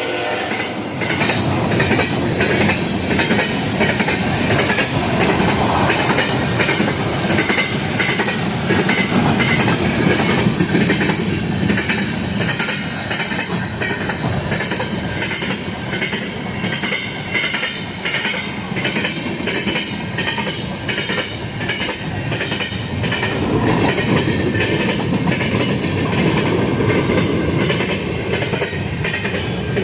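Freight train cars rolling past close by: a steady rumble of steel wheels on rail with a regular clickety-clack as the wheels cross rail joints.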